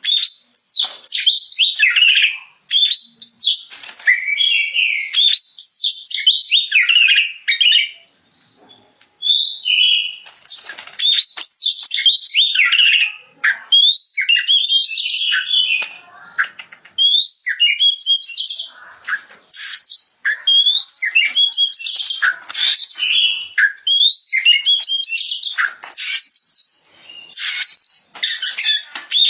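Oriental magpie-robin (kacer) in full song: a loud, near-continuous run of quick, varied whistled phrases that glide up and down, broken by short pauses and one longer break about eight seconds in.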